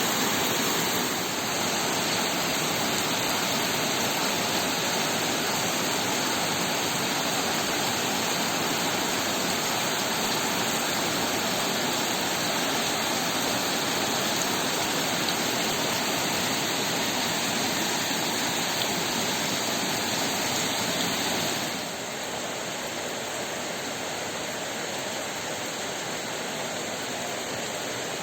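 Heavy rain pouring down as a dense, steady hiss. It turns a little quieter about twenty seconds in.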